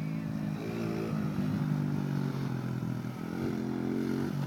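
Dirt bike engine running, its pitch rising and falling several times as the throttle is opened and eased off.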